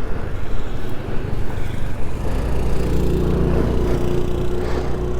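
A motor vehicle engine running, a low rumble that settles into a steadier, louder drone about three seconds in.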